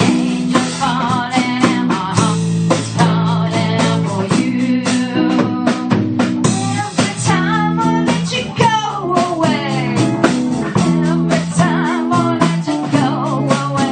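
A live blues-rock band playing through a phone's microphone: drum kit with rimshots, bass and rhythm guitar, with a lead line that wavers and bends in pitch and slides down about two-thirds of the way through.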